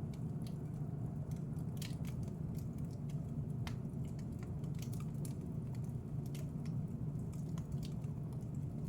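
Wood fire burning in a fireplace: a steady low rush of flames with irregular crackles and sharp pops throughout.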